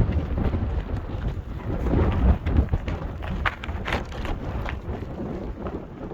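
Strong blizzard wind buffeting in low, uneven rumbling gusts, with a few sharp knocks and rustles about halfway through.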